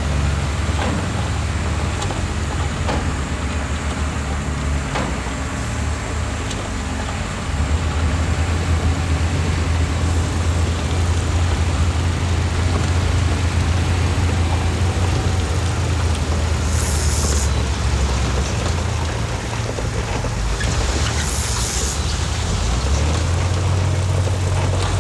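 Heavy diesel earthmoving machinery running steadily, its low engine note growing louder about seven seconds in. Two short bursts of hiss come in the second half, about four seconds apart.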